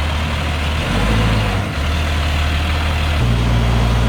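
Large truck engine running steadily, its low hum changing pitch about two seconds in and rising again near three seconds.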